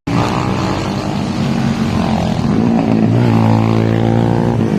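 Motorcycle engine running steadily under way, its pitch rising a little in the second half as it speeds up.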